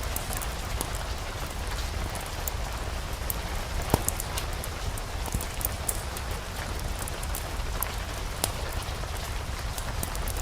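Steady rain falling, with scattered sharp pops and ticks over a low rumble; one pop about four seconds in is the loudest.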